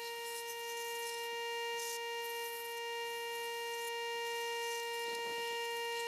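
A steady held tone with overtones, unchanging in pitch, with faint hiss above it.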